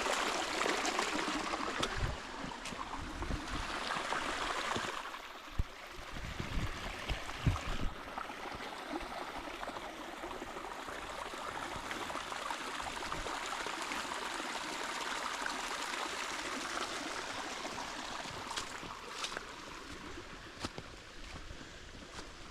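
Spring water running and trickling steadily from a natural spring, a little louder for the first few seconds. A few dull knocks come between about two and eight seconds in.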